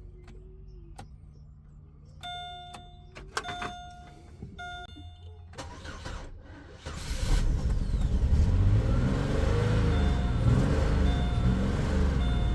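Warning chimes from a 2005 Chevy Malibu, then its 3.5 L V6 cranks and starts about seven seconds in and keeps running, with a chime still sounding about once a second. It starts now that the fuse feeding the starter circuit is jumped to battery power, pointing to a lost power feed as the cause of the no-crank. It runs "not too happy".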